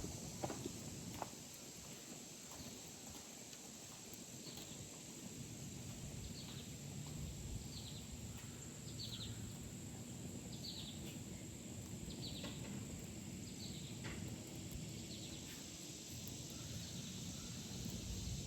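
A bird calling over steady outdoor background noise: short, high, falling chirps repeated about every second and a half.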